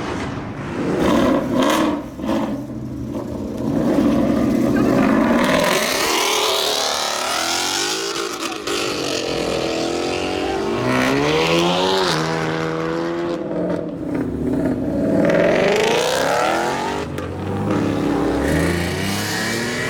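Ford Mustang engine revving hard, its pitch climbing and falling several times, over a loud steady rushing noise.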